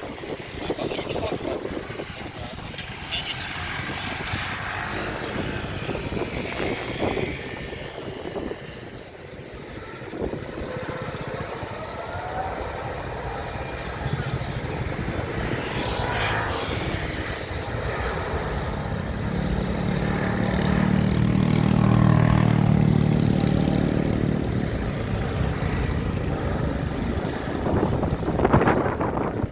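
Jet airliner's engines passing, growing louder to a peak about two-thirds of the way through and then fading, over a steady noisy hiss.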